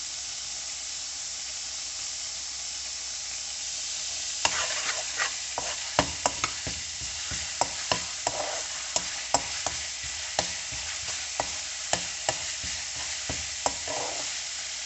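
Cumin seeds and ginger-garlic paste sizzling in hot oil in a nonstick wok, a steady hiss as the seeds fry to toast them. From about four seconds in, the mixture is stirred with a spatula, adding sharp, irregular clicks over the sizzle.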